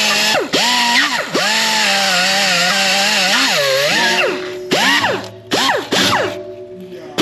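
Hand-held power tool spinning a wire wheel against a corroded transmission shift shaft to clean it, its motor pitch wavering and dipping as the wheel bites, then recovering. In the last few seconds it runs in short bursts, winding up and down, with steady background music underneath.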